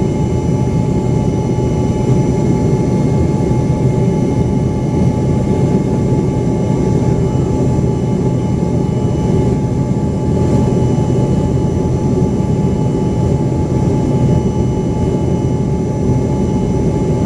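Steady cabin noise of an Embraer ERJ-135's twin rear-mounted Rolls-Royce AE 3007 turbofans, heard from inside the passenger cabin: a constant low rush with several steady whine tones over it, holding an even power setting.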